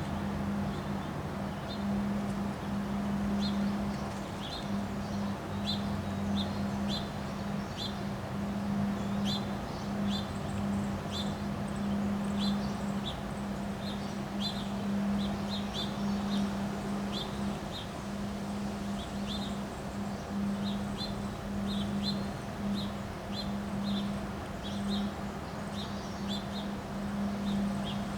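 Small birds chirping, short sharp high chirps repeated irregularly about once or twice a second, over a steady low hum and a constant rushing noise.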